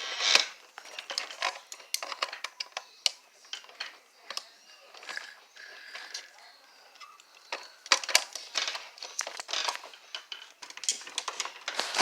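Hard plastic toy parts clicking, tapping and rattling as pieces of a toy boat are handled and fitted together, in irregular bursts of small knocks.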